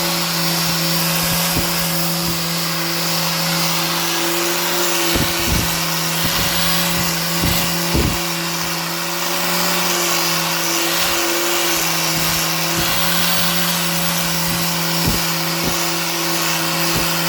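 An electric woodworking power tool running steadily: a constant motor hum under a loud hiss of cutting or sanding, with a few short knocks as the work shifts against it.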